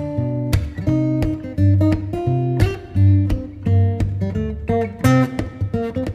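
Background music of acoustic guitar, with picked notes and strummed chords over low bass notes, without singing.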